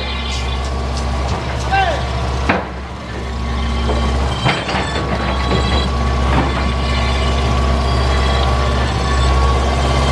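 John Deere excavator's diesel engine running steadily under working load, heard from the cab, with a steady hydraulic whine. Two sharp knocks, about two and a half and four and a half seconds in, as the machine works rocks.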